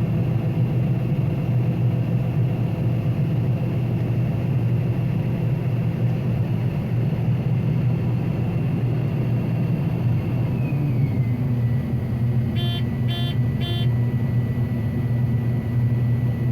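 Combine harvester running, heard from inside the cab: a steady engine drone with a high whine that slides down in pitch about ten and a half seconds in, then three quick electronic beeps.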